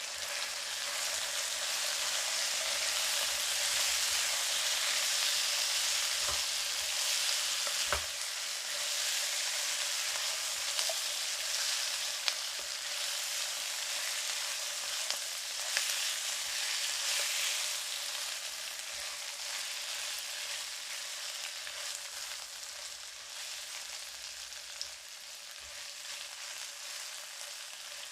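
Chicken drumsticks frying in a pan with onion, ginger, garlic and freshly added tomato paste, sizzling steadily and easing off a little in the second half. A few sharp clicks of a utensil against the pan as it is stirred.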